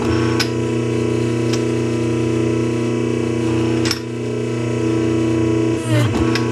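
Welder running in one steady weld on an exhaust pipe: a continuous electric buzz with a few sharp crackles, starting and stopping abruptly.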